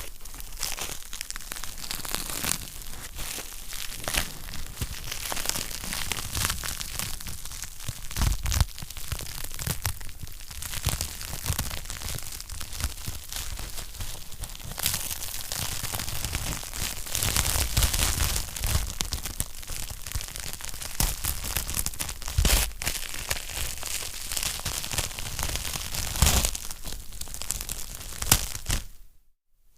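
Wood fire crackling in a fireplace: a dense run of small snaps and crackles with an occasional louder pop. The sound cuts out briefly near the end.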